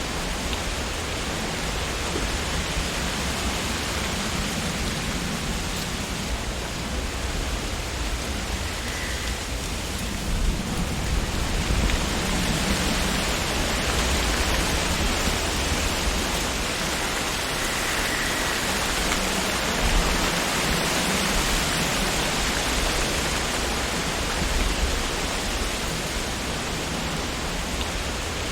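Wind blowing through tree leaves: a steady rushing of rustling foliage that swells a little louder about a third of the way in, with gentle gusts after that.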